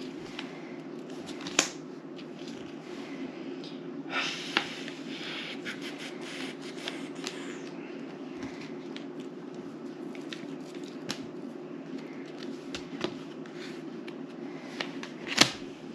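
Playing cards being handled on a table: scattered sharp clicks and a brief rustle of cards a few seconds in, over a steady low hum.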